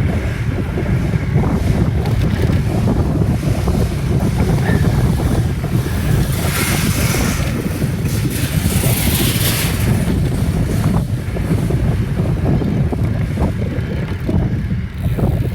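Wind buffeting the phone's microphone while cycling, a steady low rumble, with louder hiss swelling twice near the middle.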